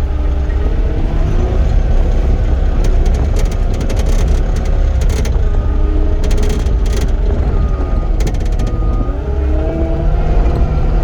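Cat 259D compact track loader's diesel engine running steadily under load, with a whine that shifts up and down in pitch as the machine works. Short spells of rattling clatter come a few seconds in and again near the middle.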